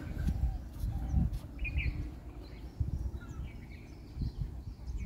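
Birds chirping in short calls several times, over a low rumbling noise.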